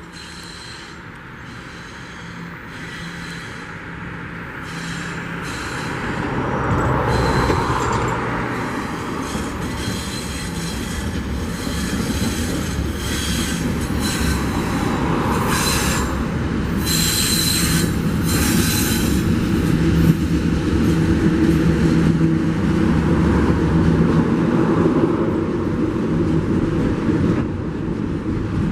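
Two Tasrail TR class diesel-electric locomotives haul a container train toward the listener and pass underneath, their engines growing steadily louder. Container wagons then roll past with a continuous rail rumble and clatter, and high-pitched wheel squeal comes and goes.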